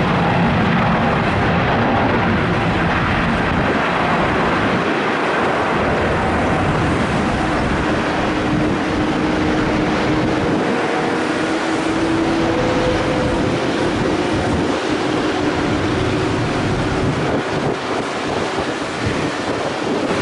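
Boeing 777's twin turbofan engines at takeoff power on departure: loud, steady jet noise with faint humming tones that drift slowly in pitch.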